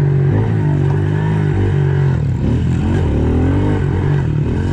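Pit bike engine running under load, its pitch rising and falling repeatedly as the throttle is worked.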